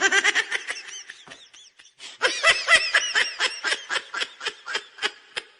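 High-pitched laughter in rapid repeated bursts, in two bouts: a short one at the start and a longer, louder one from about two seconds in that fades toward the end.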